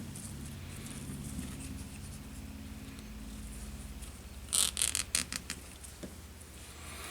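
Hand-work noises at a workbench: a quick cluster of scratchy rustles and scrapes about halfway through, with a few faint ticks, over a steady low hum.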